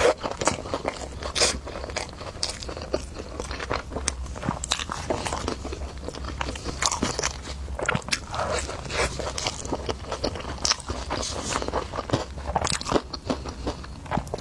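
Close-up eating sounds: a person biting and chewing a hamburger, with a steady run of wet clicks, smacks and crunches of the mouth.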